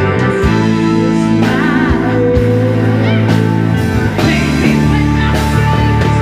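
A live rock band playing: electric guitars sustaining chords over bass and drums, with a lead melody that wavers and bends in pitch.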